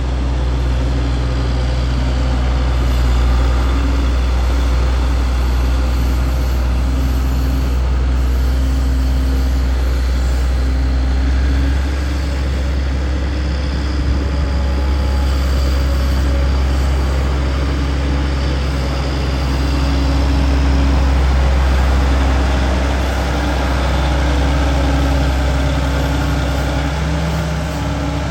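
Case IH 9270 four-wheel-drive tractor's diesel engine running steadily at a constant speed, with a deep hum.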